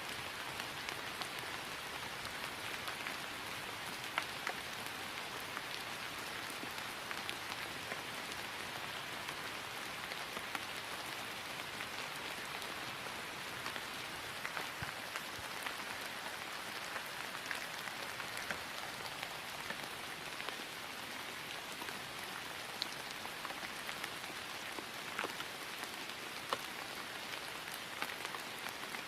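Steady rain falling on grass: an even patter with many separate drop ticks scattered through it.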